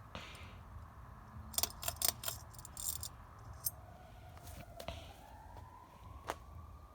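A ceiling fan's pull chain rattling and clicking several times, then from about four seconds in a faint whine rising steadily in pitch as the Harbor Breeze Cedar Hill fan spins up on low speed.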